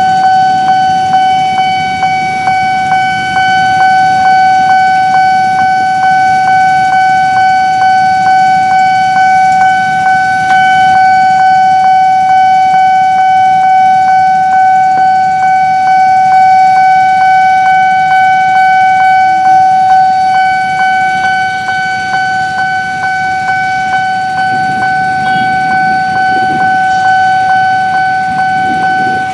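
Railway level-crossing warning alarm ringing a single high electronic tone over and over in quick, even strokes, signalling that a train is approaching. It cuts off abruptly near the end.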